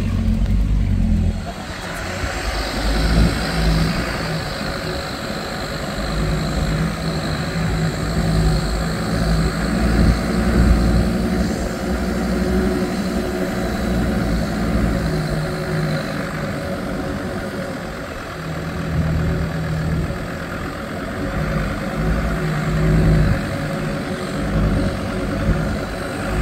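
Land Rover Discovery 2's engine running as it drives slowly over a rough grass off-road track, heard from the cab through the open window, its level rising and falling with the throttle. It is loudest in the first second and a half.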